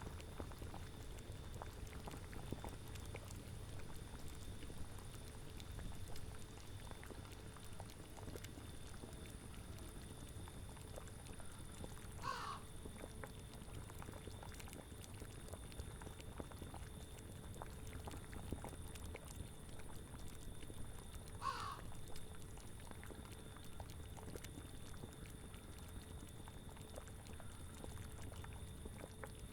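Boiling cauldron bubbling steadily over a low rumble of wind, with a short animal call heard twice, about nine seconds apart.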